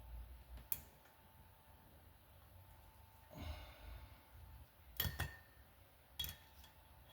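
A few sharp clicks and taps of hand tools against a motorcycle cylinder head while working out a valve stem seal: one early, a quick double click about five seconds in, and another shortly after, with a soft breath in between.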